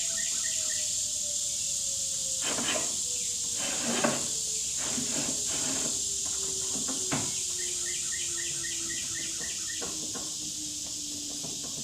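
Wooden coop parts knocking and sliding together as the roof ridge piece is fitted, with a sharp knock about four seconds in and another near seven. Under it runs a steady high insect drone, with a rapid run of chirps near the start and again later.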